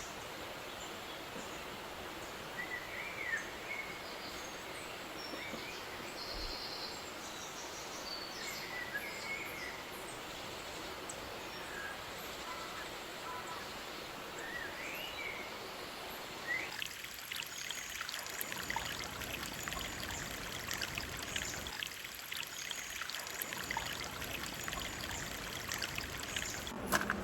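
Outdoor forest ambience: a steady rushing hiss like running water, with scattered short bird chirps. From about 17 seconds in, a denser patter of small ticks and crackles joins it.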